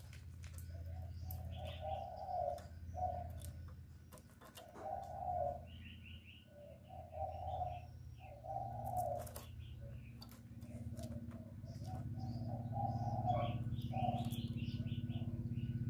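Spotted dove cooing over and over in short phrases of low, soft notes, with faint chirps from small birds in between and a steady low hum underneath.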